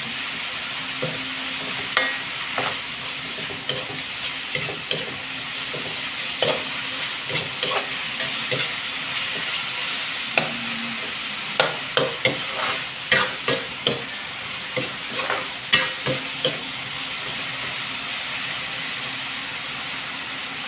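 Sliced pork and shrimp paste sizzling in an aluminium wok while a metal spatula stirs and scrapes the pan. There is a steady frying hiss, with short scrapes and clacks of the spatula throughout, coming thickest about halfway through.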